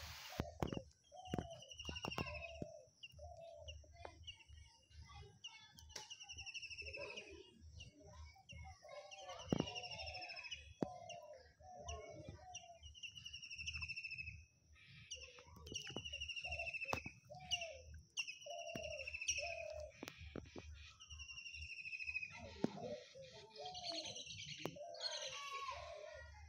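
Birds calling: a high chirping phrase with short down-sloping notes, repeated every second or two, over lower, shorter calls.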